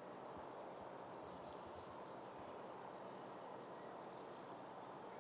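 Faint outdoor ambience: a steady, high insect trill over low background noise.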